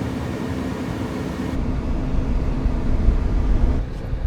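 Steady road and engine noise inside a moving car, with the low rumble growing heavier about a second and a half in.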